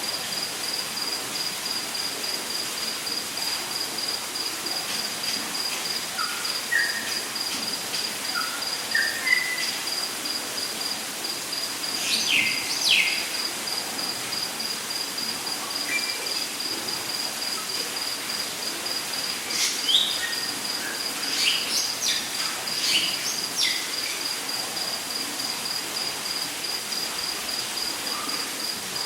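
Rainforest ambience: an insect keeps up a steady, pulsing high-pitched trill over the even hiss of falling water. A bird gives a run of short rising whistles a few seconds in, then quick downward-sweeping calls come about halfway through and again later.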